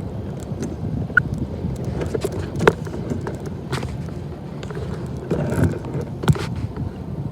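Freight train rolling past: a steady low rumble of wheels on rail with irregular clanks and knocks from the cars and rail joints, and a brief high squeak about a second in.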